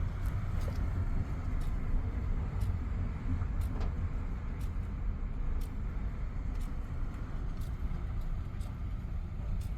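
Wind buffeting the microphone in a low, gusting rumble, with a faint tick about once a second.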